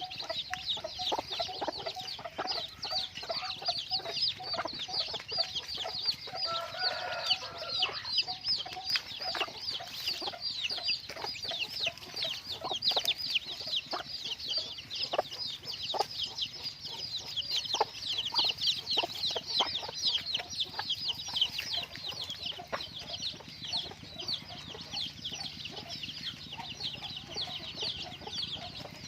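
A crowd of chicks peeping constantly: many short, high chirps that each slide downward, overlapping without a break. Lower clucking runs underneath for roughly the first eight seconds.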